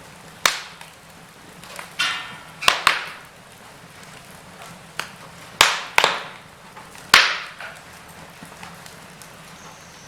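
Wood fire crackling in a fireplace: irregular sharp pops and snaps over a faint steady background, with a cluster of loud pops through the middle.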